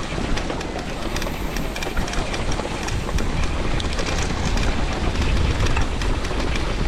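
Mud and rock debris flow: a steady low rumble with many sharp knocks and clatters of rocks tumbling in it.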